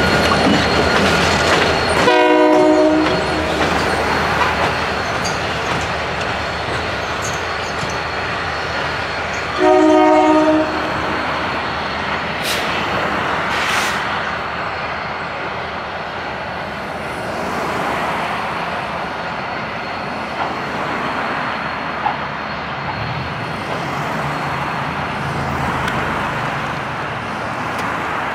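A train running past with a steady rumble of wheels and cars. The locomotive sounds two short blasts of several tones at once, about two seconds in and again about ten seconds in.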